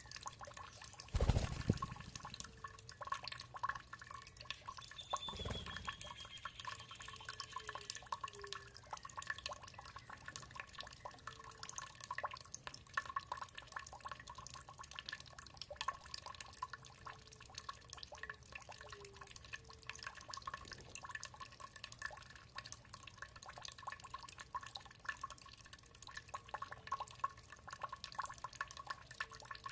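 Water dripping and trickling, a dense patter of small drops throughout. A short high bird trill is heard about five seconds in, and two dull low thumps come in the first few seconds.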